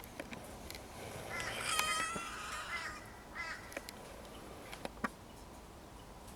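A bird giving one harsh call lasting about a second and a half, then a short second call, with a few scattered clicks.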